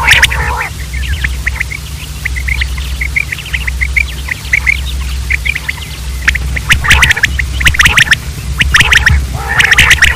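Common quail calling in harsh, rapid bursts of short notes, with a run of quieter short notes between the bursts, over a steady low hum.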